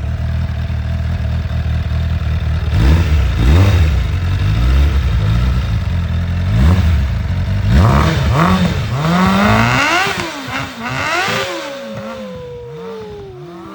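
Suzuki motorcycle engine idling, then blipped on the throttle again and again, each rev rising and falling in pitch, before dropping back toward idle near the end.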